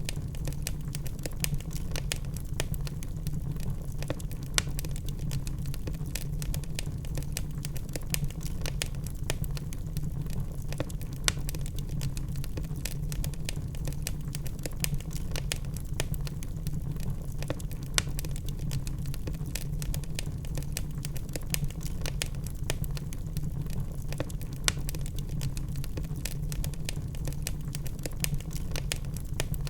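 Burning logs in a fireplace crackling: constant irregular snaps and pops, a few louder than the rest, over a steady low rumble from the fire.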